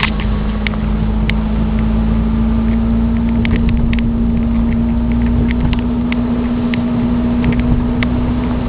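A 1990 Volvo 740 GLE's 16-valve four-cylinder engine running steadily while driving, heard from inside the cabin as a constant drone with a steady hum. Scattered light ticks and clicks come through over it at irregular intervals.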